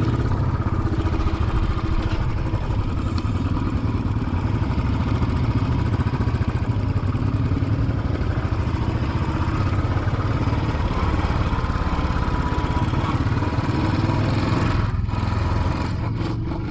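Royal Enfield Classic 500's single-cylinder engine running steadily while the motorcycle is ridden.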